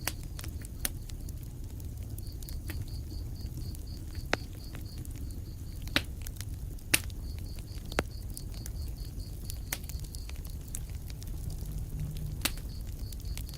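Wood fire burning in a fireplace: a low, steady rumble of flames with sharp crackling pops every second or two, the loudest about six and seven seconds in. An even, high chirping, about five pulses a second, comes and goes in runs of a few seconds.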